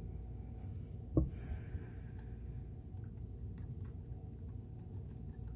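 Small metal parts of a sewing machine being handled: one sharp knock about a second in, a short hiss, then scattered light clicks over a steady low hum.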